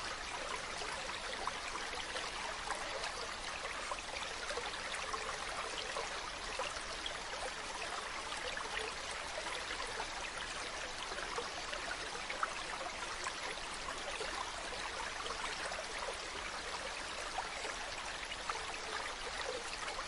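Mountain stream running over rocks: a steady rush of water dotted with many small splashes and trickles.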